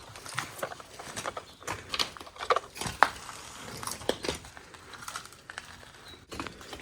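Footsteps crunching and scraping over debris on a littered floor, a string of irregular sharp crackles and scuffs.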